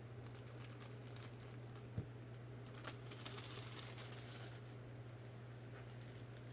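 Faint handling sounds: one sharp knock about two seconds in, then a few light ticks and rustles, over a steady low hum.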